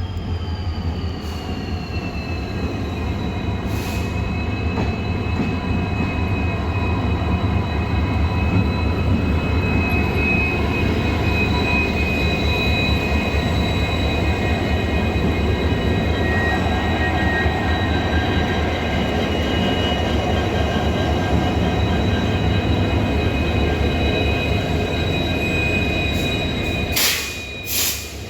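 Train wheels squealing against the rail in long, steady high tones that dip slightly in pitch over the first few seconds, over a low steady drone. Two sharp knocks come near the end.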